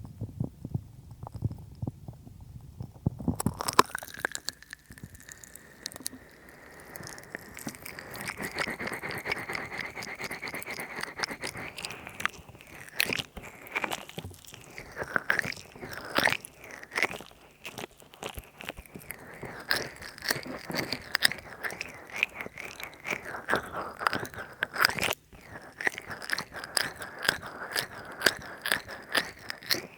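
Oil-slick hands massaging close to a binaural microphone, rubbing and squelching wetly. Too much oil makes it squelch. About three and a half seconds in, low muffled rubbing gives way to bright, dense wet clicking that goes on to the end.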